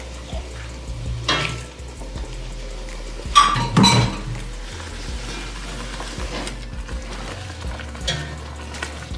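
Salsa sizzling and frying in a hot enameled cast-iron pot, with a few sharp knocks of a utensil against the pot about three and a half seconds in, and a spoon stirring through the sauce near the end.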